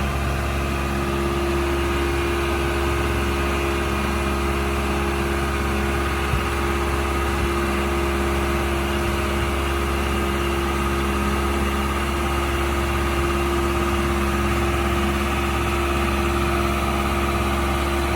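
An engine running steadily at idle, a constant low rumble with a steady hum that does not change in speed.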